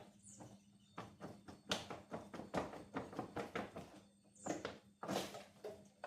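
Irregular clicks and knocks of hand tools and metal parts as a stuck part is worked loose during an engine install, with a couple of brief scrapes near the end.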